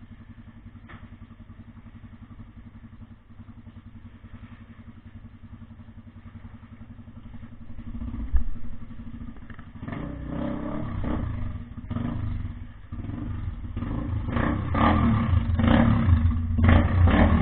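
An engine running steadily at idle, then louder and rougher from about eight seconds in, with a single thump as it picks up.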